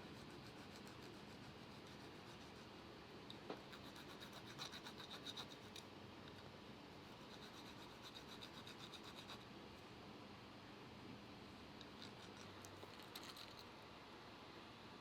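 Faint scratching strokes in three short runs: a dog's nails being filed by hand.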